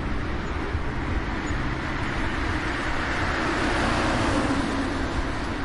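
Street traffic: a steady rumble and tyre noise of passing vehicles, with one vehicle swelling louder as it passes, loudest about four seconds in.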